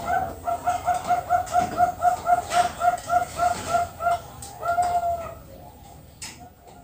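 Zebra dove (perkutut) cooing: a fast, even run of short pitched notes, about five a second, lasting some four seconds, then one longer drawn-out note about five seconds in.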